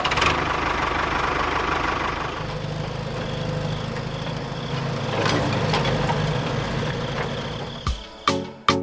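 A small motor running steadily with a low hum, stopping abruptly about eight seconds in, followed by a few sharp clinks.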